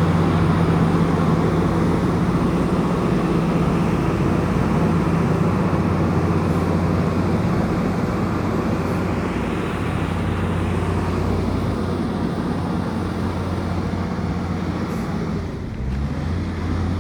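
Komatsu bulldozer's diesel engine running steadily under work, with a deep, even hum. It eases briefly near the end before picking up again.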